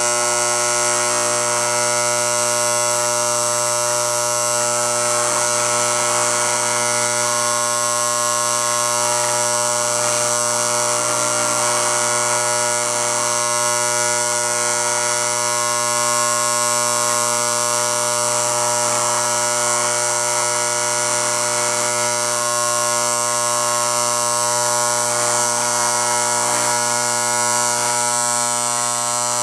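Steady electric buzz from the restored American Flyer 771 operating stockyard's vibrator mechanism, the AC-driven vibration that walks the cattle through the pens. It holds one unchanging pitch throughout.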